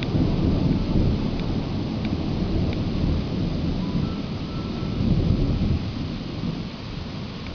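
Thunder rumbling continuously with rain falling, swelling near the start and again about five seconds in, then easing off toward the end.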